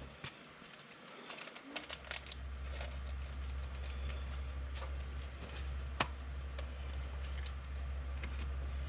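Faint scattered clicks and light taps, with one sharper click about six seconds in, over a steady low electrical hum that cuts out briefly near the start and then returns.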